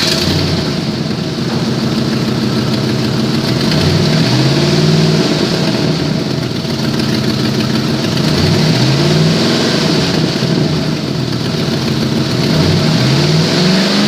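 2005 Ford F150 engine running at idle and revved three times, each rev rising and falling back to idle. The seller says the engine has an exhaust leak.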